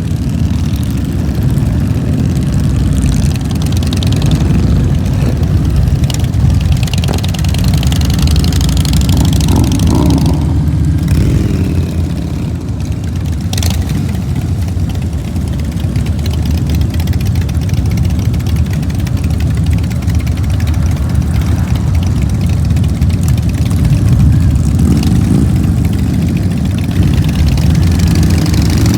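Motorcycle engine running steadily under way, a continuous low rumble whose pitch rises and falls a few times with the throttle.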